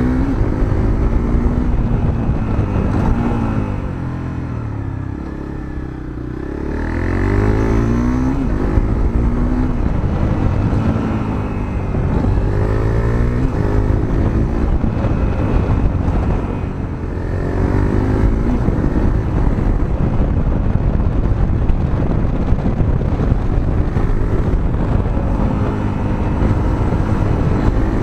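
Honda CRF250L's single-cylinder engine with a Moriwaki aftermarket muffler, heard onboard while riding: the revs climb and drop again and again as it pulls through the gears. It eases off twice, the sound dipping briefly before building again.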